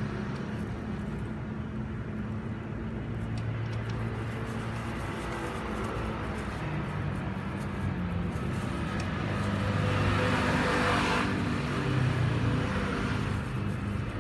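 A motor vehicle engine running steadily, getting louder from about ten to twelve seconds in.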